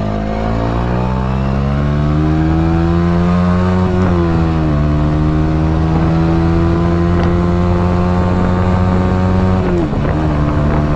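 Motorcycle engine accelerating, its note rising. It dips sharply twice as the rider shifts up a gear, once about four seconds in and once near the end.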